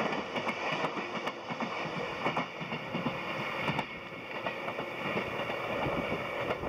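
A three-car 413 series electric train passing close by, its wheels clattering over the rail joints. The noise drops off about four seconds in as the train moves away.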